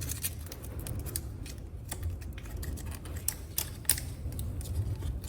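Screwdriver tip clicking and scraping irregularly against metal around a motorcycle's front sprocket and chain guide, digging out packed dirt and grease.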